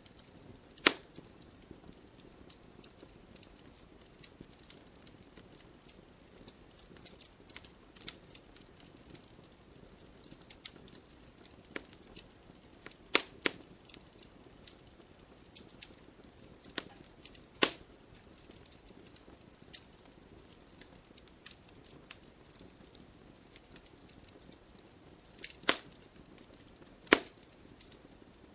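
Wood fire crackling in a fireplace: frequent small irregular crackles over a soft hiss, with a few louder sharp pops about a second in, around 13 and 17 seconds, and twice near the end.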